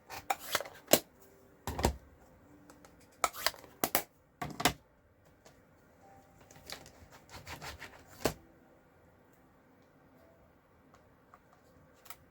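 Stamping supplies handled on a craft desk: a quick run of sharp taps and clicks in the first five seconds, then a few scattered clicks.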